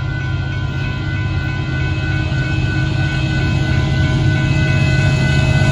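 Approaching Union Pacific diesel freight train: a low engine rumble grows steadily louder, with steady high ringing tones from the crossing's warning signal running through.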